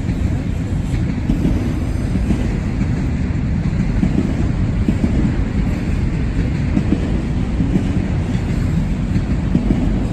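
Train passing close by: a loud, steady rumble of rail cars rolling on the track.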